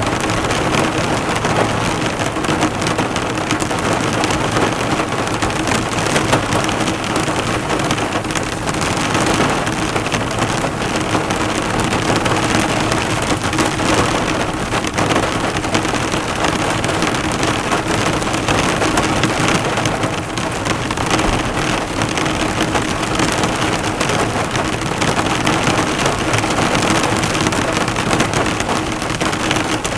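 Heavy rain falling steadily on a car, thousands of drops bouncing off the bonnet in a dense, even patter.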